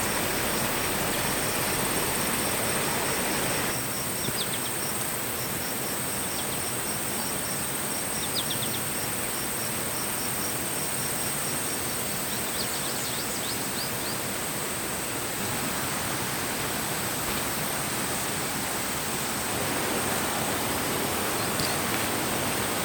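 Steady rushing outdoor forest ambience with a few short, high bird calls, some about four and eight seconds in and a cluster about twelve to fourteen seconds in.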